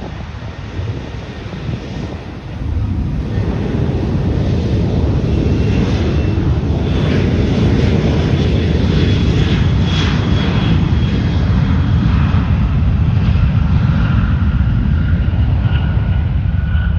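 Boeing 737 jet engines at takeoff thrust: the sound jumps louder about two and a half seconds in, then holds as a loud low rumble with a thin whine above it.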